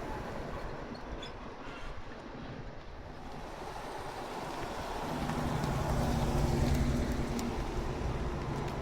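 A car engine running with a low, steady tone. It comes in about five seconds in and grows louder as the car approaches.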